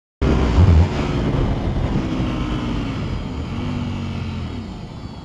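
Road vehicle engine running, its pitch rising and falling with the throttle, with a heavy low thump just after it starts; it fades gradually toward the end.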